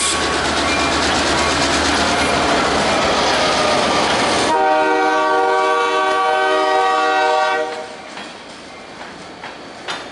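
A train running close by, loud wheel and engine noise, then the locomotive's horn sounding one long blast of about three seconds, starting about halfway through. After the horn the sound drops to a quieter rumble.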